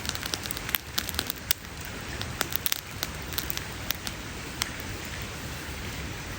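Wood campfire crackling: sharp snaps and pops over a steady hiss, the pops thinning out after about four and a half seconds.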